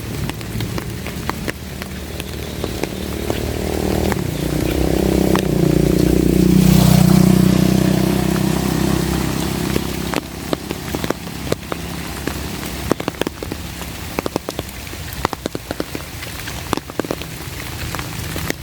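Steady rain falling, with a low rumble that swells from about three seconds in, peaks around the middle and fades out; after that, many sharp drop ticks stand out over the rain.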